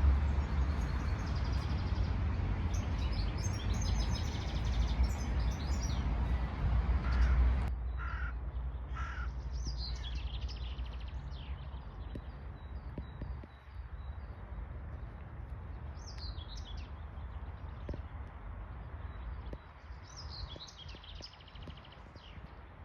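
Songbirds chirping and trilling, with a crow cawing a few times, over a low wind rumble on the microphone that drops away abruptly about eight seconds in, leaving the birds over a quieter outdoor hush.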